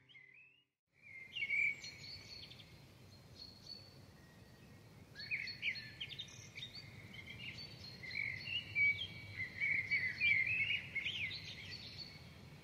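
Small birds chirping and twittering in quick, high calls over a steady low background noise, starting about a second in after a brief silence; the chirps come thickest around the middle and toward the end.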